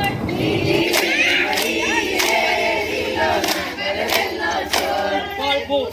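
A group of voices singing a Gujarati garba song together, with sharp hand claps falling at a regular beat.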